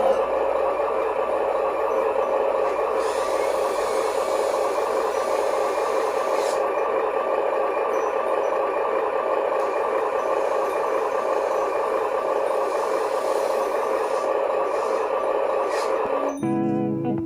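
Radio-controlled dump truck's electric motor and gearbox running with a steady whine, cut off near the end by keyboard music.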